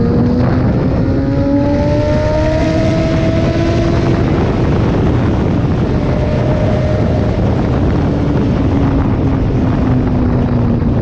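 Sport motorcycle engine running at speed under heavy wind rush, its note climbing steadily for about four seconds as it pulls through a gear, then fading into the wind noise, with a slowly falling engine note near the end.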